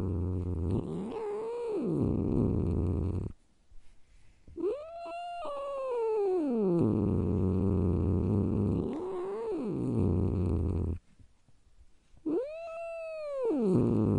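A cat giving drawn-out yowls that rise and then fall in pitch, four times, the longest about two seconds, over a continuous low rumble that breaks off twice.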